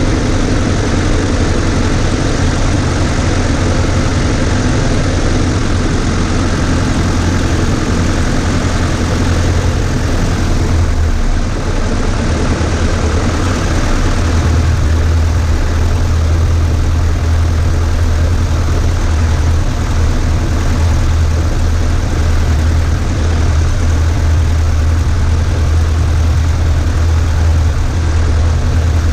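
Cessna 140A's piston engine and propeller running steadily, a loud continuous drone with a slight dip about eleven seconds in, after which the low hum grows stronger.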